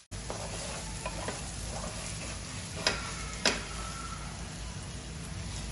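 Chopped onion and ginger-garlic paste frying in oil in a stainless steel kadhai, sizzling steadily while a spatula stirs and scrapes them as they brown. Two sharp clinks of the spatula against the pan come about three and three and a half seconds in.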